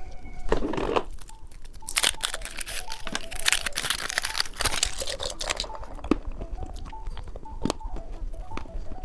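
Plastic candy packaging being torn open and crinkled. A short rustle comes just before a second in, then a long stretch of dense crinkling from about two seconds in to nearly six, with sharp clicks and taps scattered throughout.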